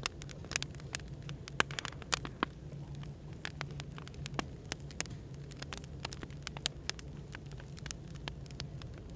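Wood fire crackling: irregular sharp pops and snaps, several a second, over a steady low hum of café background noise.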